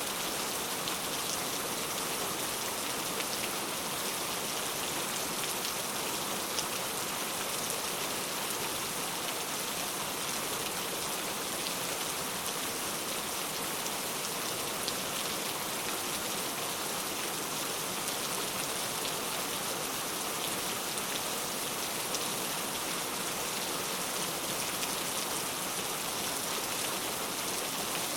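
Steady rain falling, a constant hiss with scattered faint drop ticks.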